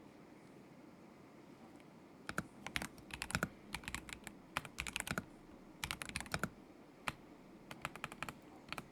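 Typing on a KZZI K75 Pro mechanical keyboard with Moment linear switches: quick bursts of keystrokes that start about two seconds in, broken by short pauses, with a single keystroke between two of the bursts.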